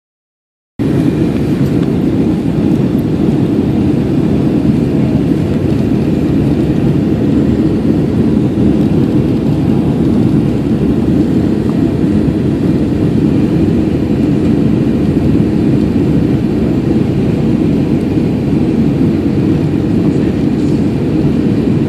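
Steady cabin noise of a Boeing 737-800 airliner: a constant low rumble of its CFM56 turbofan engines and airflow, cutting in abruptly just under a second in.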